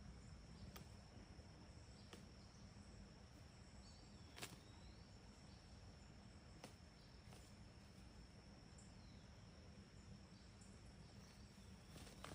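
Near silence outdoors: a faint steady high-pitched insect drone, with a few faint scattered ticks and a couple of short faint chirps.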